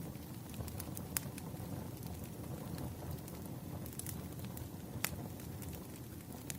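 Firewood crackling and popping, with sharp pops about a second in and again about five seconds in, over a steady low rumble.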